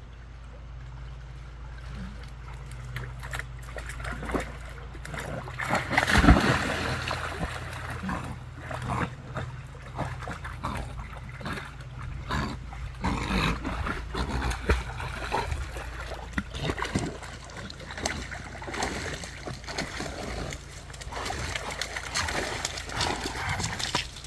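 A dog splashing through lake water, with irregular splashes throughout and the loudest about six seconds in.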